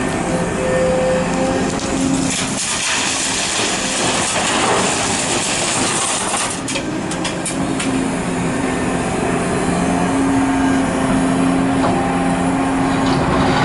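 Large hydraulic excavator's diesel engine running steadily under load. About two seconds in, a rush of crunching, scraping noise sets in, typical of the bucket working soil, with several sharp knocks near the middle before the steady engine note returns.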